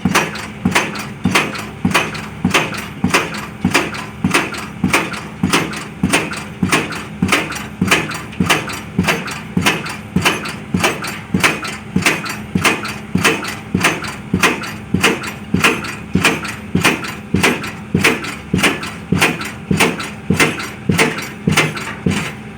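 Pile-driving hammer striking at a steady rhythm of about two blows a second, each a sharp metallic impact, over the steady hum of the rig's engine.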